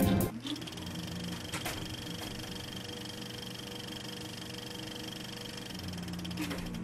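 Music cuts off just after the start, leaving a steady mechanical hum with a faint high whine held throughout.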